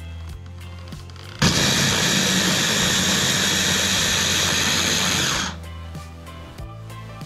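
Electric hand blender with a chopper bowl attachment running for about four seconds, blades chopping quartered onions fine. It starts about a second and a half in and stops abruptly.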